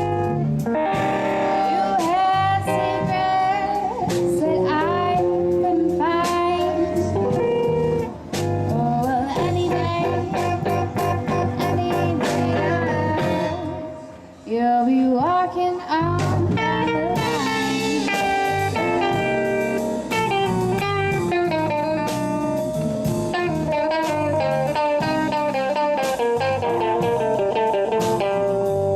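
Live band with electric guitars, bass and drums playing a blues-rock number, a melodic lead line bending over the rhythm. The music thins out briefly about halfway through, then comes back in full.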